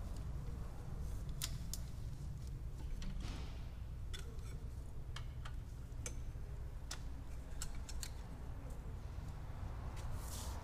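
Scattered sharp clicks and ticks from a hand ratchet and torque angle gauge turning cylinder head bolts through an angle-tightening stage on a Ford 1.6 8v Zetec Rocam engine, over a low steady hum.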